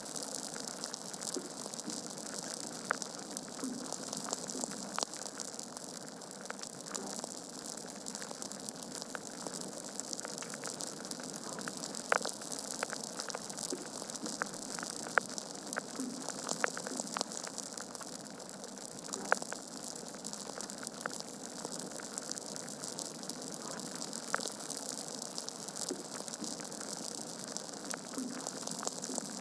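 Logs burning in a fireplace, crackling: a steady hiss with many small pops and snaps, and a few sharper, louder snaps around the middle.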